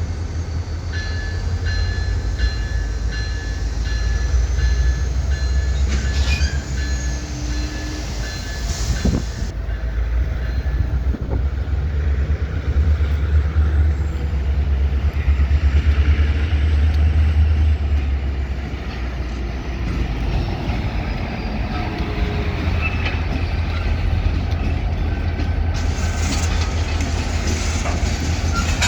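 EMD GP38-2 and GP40-2LW diesel locomotives working in a rail yard: a deep, steady engine rumble with the clack of rolling cars, growing louder about halfway through. Over the first third, high ringing tones sound in short on-and-off pulses.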